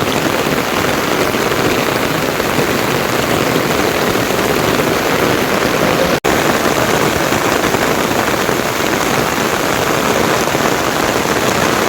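Heavy rain falling steadily and loudly, a dense hiss of drops, with a momentary break about six seconds in.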